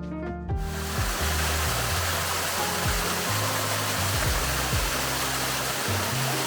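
Rushing water from a jungle waterfall, an even roar that comes in abruptly about half a second in, under background music with bass notes and drum hits.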